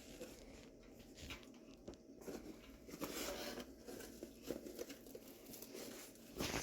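Faint crinkling and rustling of packaging being handled, with small knocks, louder about three seconds in and again near the end.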